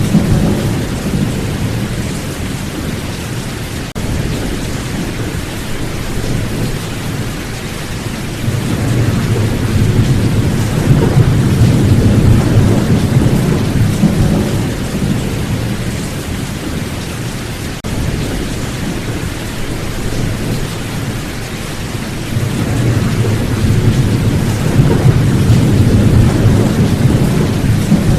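Steady heavy rain hissing, with low rolling thunder that swells and fades, loudest about a third of the way in and again near the end.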